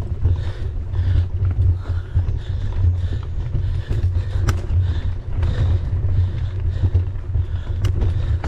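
Mountain bike ridden on a trail with wind buffeting the camera's microphone: a loud, steady, pulsing low rumble with tyre and trail noise, and two sharp clicks, about four and a half and eight seconds in.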